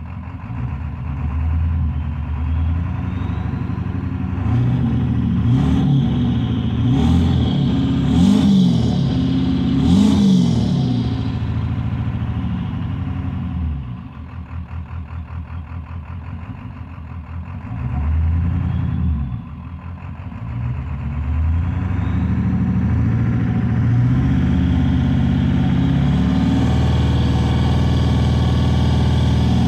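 Ford 7.3 Power Stroke V8 turbo-diesel engine under load, revving up and falling back several times, with two brief drops in level, then running steadily near the end. It is the engine of a truck whose owner says it misfires when floored.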